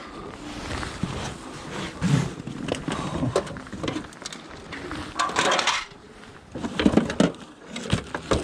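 Scrap metal clattering and knocking as it is handled, in irregular knocks with a louder rattle about five seconds in.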